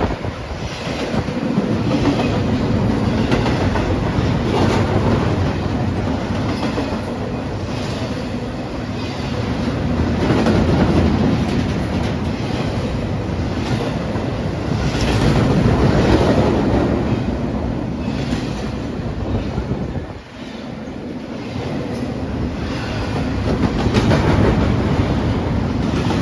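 Freight train cars rolling past close by, refrigerated boxcars and then double-stack container well cars. A steady heavy rumble with a repeated clickety-clack of wheels over the rail joints, swelling and easing as the cars go by, with a brief lull about twenty seconds in.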